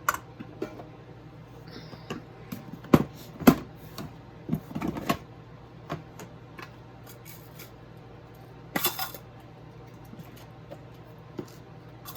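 Small hand tools and metal pieces being handled and set down on a work table: two sharp clacks about three seconds in, a cluster of clinks around five seconds, and a brief rustle near nine seconds.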